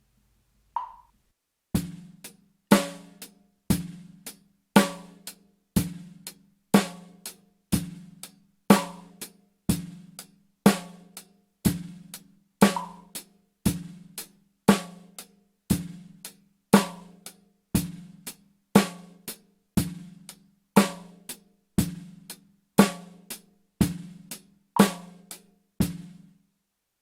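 Drum kit playing a simple steady beat at about 60 BPM, a main hit about once a second with lighter strokes between, practised against a metronome set to click only once per bar. It starts about a second in and stops shortly before the end.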